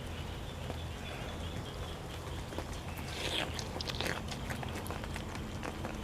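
A person chewing a mouthful of food with wet mouth sounds and a few short clicks, bunched about three to four seconds in, over a steady low hum.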